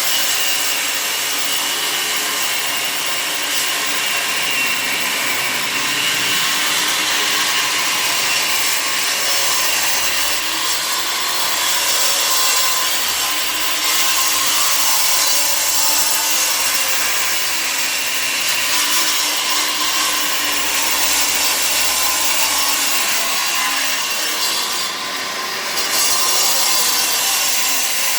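A power tool working continuously on a renovation job, a steady, loud grating noise with a short dip in level about 25 seconds in.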